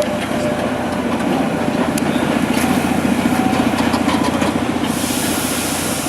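Núria rack railway train running slowly, a steady mechanical rumble with a fast even beat. A hiss starts near the end.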